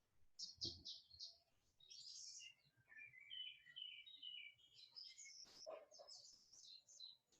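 Faint songbird chirping, a run of short twittering phrases one after another, with a soft knock about a second in and a brief click past the middle.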